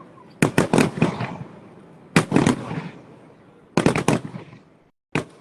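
Fireworks going off in four quick clusters of sharp bangs about a second and a half apart, each a rapid rattle of three or four cracks with a short echoing tail.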